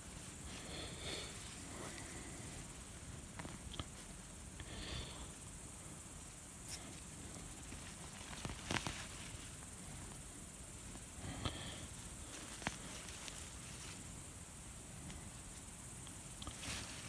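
Hands rummaging through dry soil under potato plants for new potatoes: faint, sparse rustles and scrapes a few seconds apart, over a steady high hiss.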